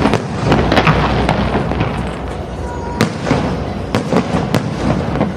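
Fireworks display: a continuous crackle of bursting shells punctuated by sharp bangs, one about three seconds in and two more a second or so later.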